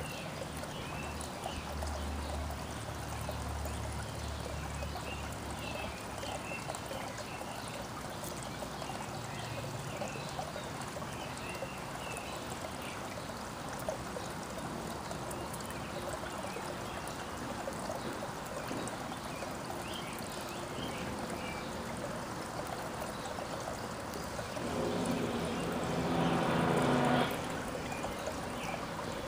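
Outdoor backyard ambience: a steady trickling, running-water sound with small bird chirps over it. About 25 seconds in, a louder pitched drone rises for two or three seconds, then cuts off.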